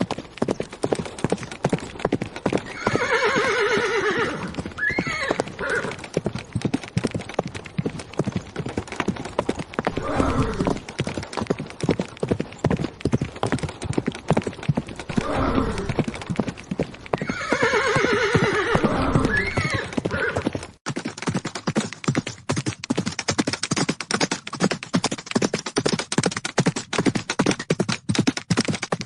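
Galloping horse hoofbeats, a rapid running patter, with a loud whinny about three seconds in and another about seventeen seconds in. After about twenty-one seconds the hoofbeats turn thinner and more spaced.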